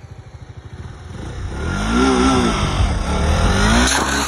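A KTM Duke motorcycle's single-cylinder engine accelerating hard toward the listener, growing louder, with the revs rising and falling as the throttle is whacked open to lift the front wheel into a wheelie.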